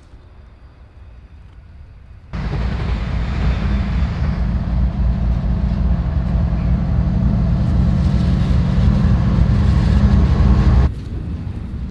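Train passing close by with a loud, steady rolling rumble that starts abruptly about two seconds in and cuts off abruptly near the end.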